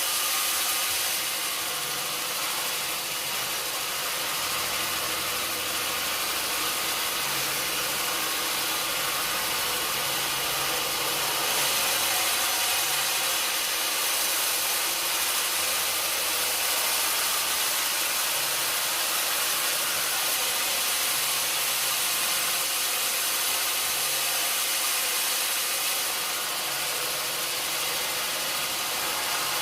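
Sawmill saw and its engine running steadily: a constant hissing noise over a low drone that shifts in pitch now and then.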